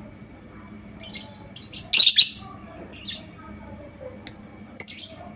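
Lovebird calling: a string of short, high-pitched chirps, loudest in a quick cluster about two seconds in.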